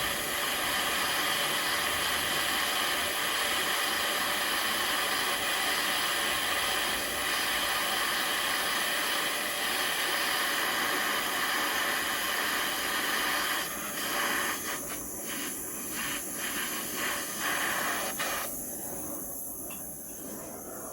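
Gas torch flame hissing steadily while heating the steel rod. About two-thirds of the way through the hiss thins and flickers, and near the end it drops lower.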